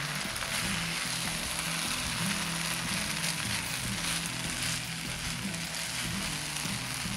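Biryani rice sizzling in a pot over a high flame as it is mixed, under soft background music.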